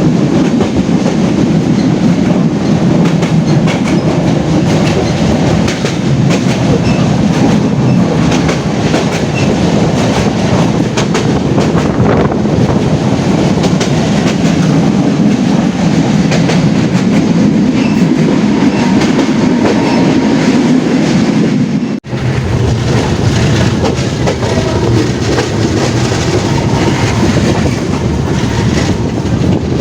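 Passenger train running at speed, heard from on board: a steady rumble of wheels on the track with clickety-clack over the rail joints. The sound cuts out briefly about 22 seconds in.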